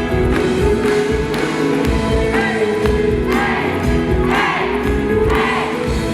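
Live band performance: amplified guitars, bass and drums with singing, with voices swelling over the music from about halfway through.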